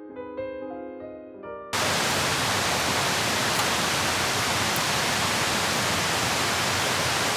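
Soft piano music that stops abruptly about two seconds in, replaced by a loud, steady, even hiss with a couple of faint ticks.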